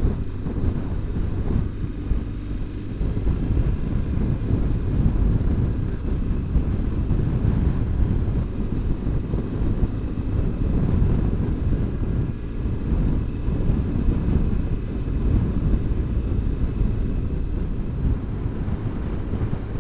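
Wind buffeting the microphone of a moving motorcycle, a steady low rush, with the BMW R1200GS Adventure's boxer-twin engine and road noise underneath.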